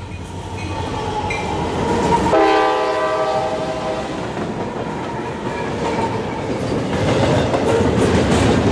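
Freight train of four diesel locomotives passing close, engines rumbling, with the lead unit's horn sounding once for about a second and a half about two seconds in. Then double-stack intermodal cars roll by with clickety-clack of wheels over rail joints, growing louder near the end.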